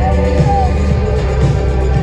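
Live indie-rock band playing, with a heavy, steady bass and bright melodic lines over it, loud and slightly distorted as picked up by a phone in the crowd.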